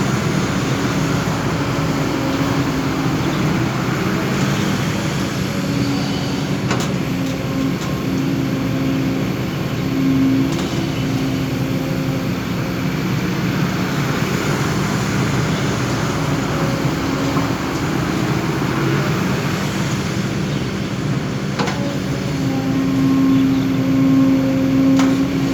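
Excavator's diesel engine running under working load, with a humming tone that swells and fades several times as the machine works, strongest near the end.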